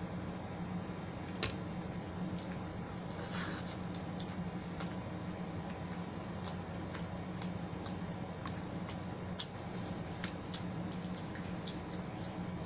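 Close-miked eating: wet chewing and mouth clicks at irregular intervals over a steady low hum, with a brief louder smacking or slurping noise about three seconds in.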